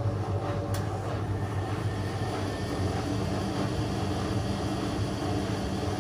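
Whirlpool FL 243-500 front-loading washing machine running a steady hum, most likely its final spin at 500 rpm, with a faint click about a second in.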